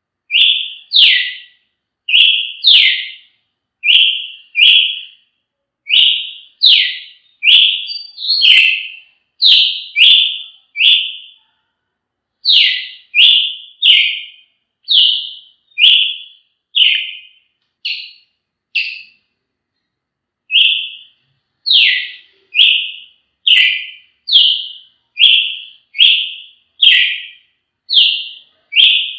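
Brazilian tanager (tiê-sangue) singing: short whistled notes, mostly in pairs, repeated steadily about once a second, with a brief pause about two-thirds of the way through.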